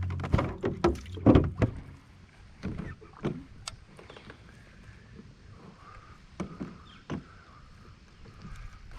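Knocks and thumps of things handled against a kayak: a quick cluster in the first two seconds, the loudest about a second in, then a few scattered single knocks.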